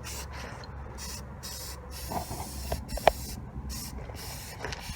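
Aerosol can of Rust-Oleum high-heat spray paint hissing in short bursts, roughly two a second, as it sprays onto a truck's exhaust tip, with a sharp click about three seconds in.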